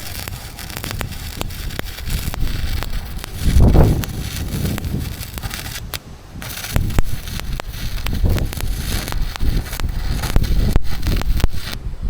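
Welding arc crackling and sputtering continuously as a seam is laid, with a brief stop about halfway through and another at the end. Low gusts of wind buffet the microphone.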